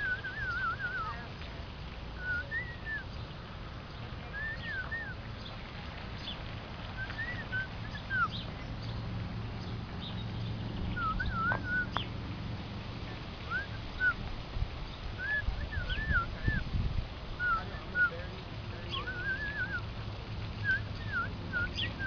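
A small bird chirping in short, warbled phrases of a few quick notes, repeated every second or two, over a low steady background rumble.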